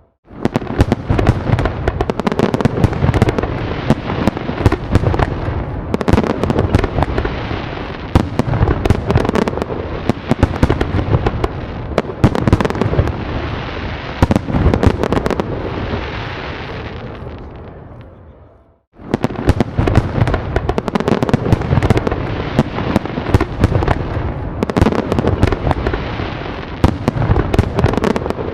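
Fireworks in a dense volley: rapid bangs and crackling over a continuous rumble. It fades away about two-thirds of the way through, stops for a moment, then starts again abruptly.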